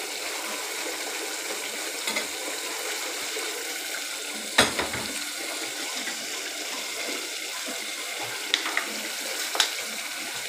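Chicken in a thick gravy sizzling and bubbling in a pot on the stove as it fries down: a steady hiss, with a few sharp clicks, the loudest about four and a half seconds in.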